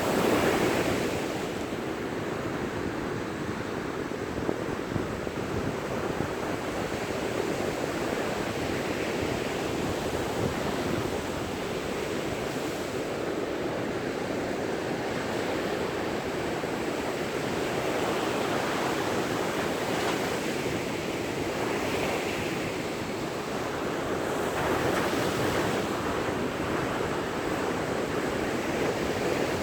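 Ocean surf breaking and washing up a beach, a continuous rushing wash that swells louder with incoming waves at the start and again in the second half. Some wind noise on the microphone.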